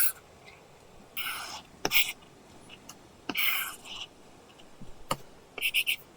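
Apple Pencil tip scratching across an iPad covered with a paper-texture matte screen protector: a few short scratchy drawing strokes, sharp taps of the pencil tip between them, and a quick run of short strokes near the end.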